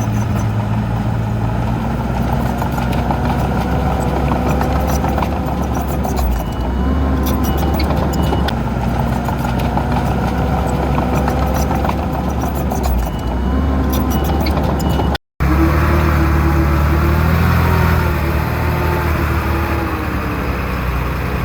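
Heavy diesel engines of earthmoving machinery running steadily, with light clicking and rattling in the first half. About fifteen seconds in the sound cuts out for a split second and resumes with a different engine note.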